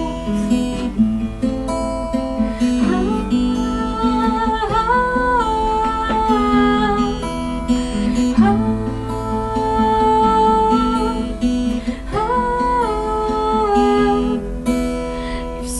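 Instrumental break in a song: acoustic guitar accompaniment with a sustained, sliding melody line held over it.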